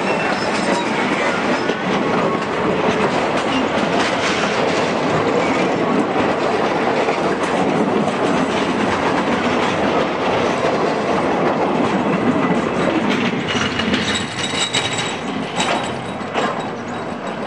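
Train rolling past over the rails, its wheels clattering steadily. Thin high wheel squeal rises briefly several times in the last few seconds.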